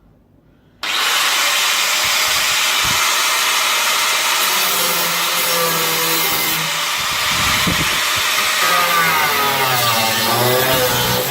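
Angle grinder switching on about a second in and grinding the steel of a car body: a loud, steady hiss with a whine that wavers in pitch as the disc is pressed into the metal.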